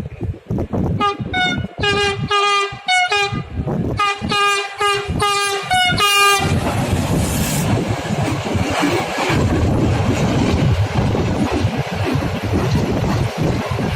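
Freight train locomotive horn sounding about a dozen short toots in two quick runs, followed by the steady rumble and wheel noise of the train passing.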